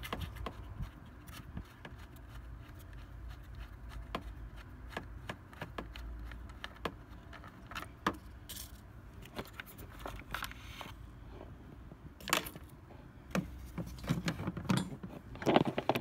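Ratcheting combination wrench clicking irregularly as it turns a bolt out of a sheet-metal bracket, with metal clinks and a louder clatter of handled parts in the last few seconds.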